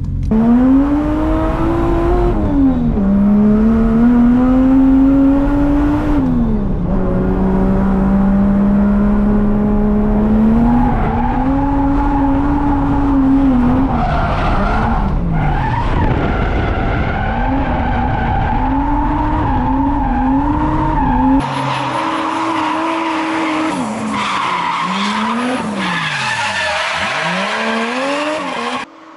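Drift car's engine revving hard, its pitch climbing and then dropping again and again as the throttle is worked, with tyres squealing and skidding through the slides. About three quarters through, the sound changes abruptly and the deep rumble drops away.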